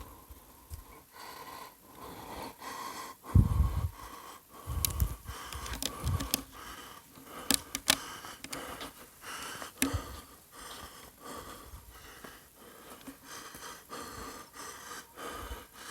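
A person's quiet breathing, broken by a few dull thumps and several sharp clicks.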